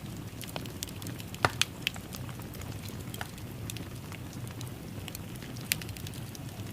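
Wood fire in a fireplace crackling: a steady low rush of burning with scattered sharp pops and snaps, the loudest a cluster about a second and a half in.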